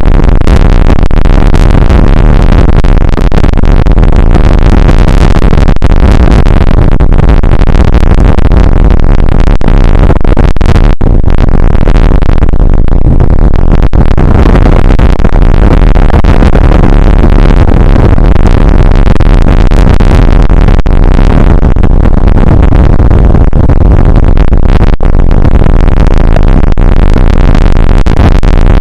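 Rain shower and wind on an outdoor camera's microphone, overloaded into a constant distorted rush with a heavy low rumble and a few very brief dropouts.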